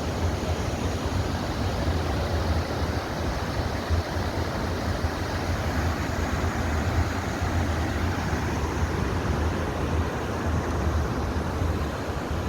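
Steady rushing roar of a glacial waterfall: a constant, even noise that is heaviest in the low end.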